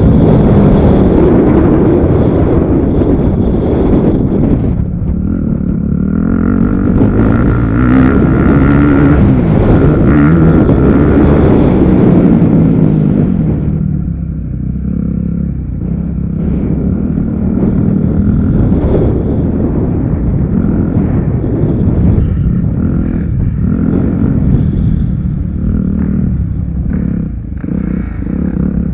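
Motocross motorcycle engines running loud, their pitch rising and falling repeatedly as they rev up and back off.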